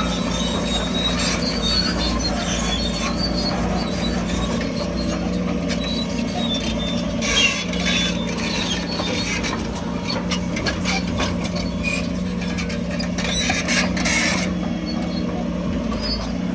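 Crawler bulldozer's diesel engine running steadily while its steel tracks squeal and clank as it moves, with two short louder bursts of grinding noise.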